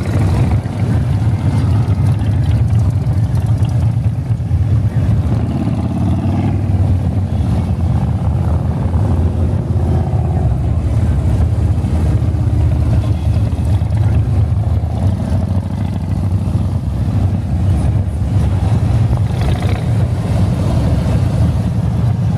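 Motorcycles of a large convoy riding past in a continuous stream, their engines running together in a steady, loud, deep rumble with individual bikes rising and fading as they pass.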